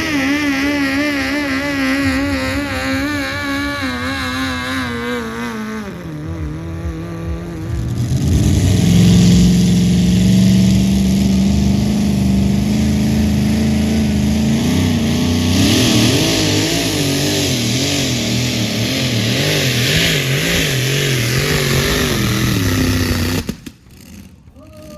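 Engine of a pulling vehicle running hard under load, its pitch wavering throughout. The pitch drops about five seconds in, then climbs and holds high before the sound cuts off abruptly near the end.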